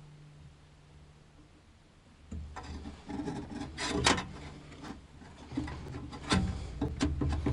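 Irregular rubbing and scraping with scattered clicks and knocks of hard parts being handled, starting a little over two seconds in after a quiet stretch with a faint low hum.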